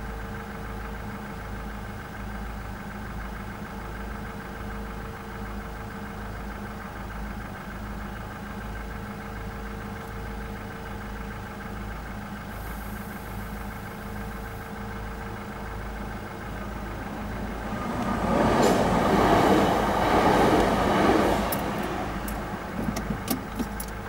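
Third-rail electric passenger train passing over a level crossing: its sound swells about 18 s in, stays loud for about three seconds and fades, followed by a quick run of sharp wheel clicks over the rail joints near the end. Beneath it is a steady low hum.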